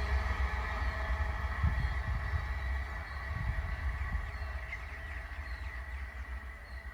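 A train running away down the line, its low rumble and steady ringing from the rails fading out, with faint bird chirps coming through near the end.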